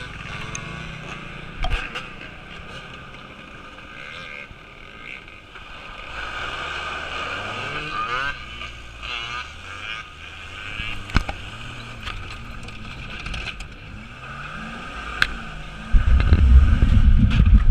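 Off-road vehicle engines revving, their pitch rising and falling repeatedly, with a few sharp clicks and a loud low rumble near the end.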